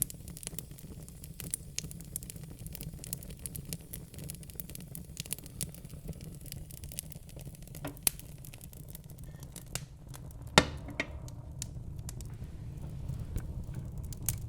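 Wood fire in a fireplace crackling, with many small pops and snaps over a low steady rumble of the flames; two louder pops, one about eight seconds in and a sharper one past ten seconds.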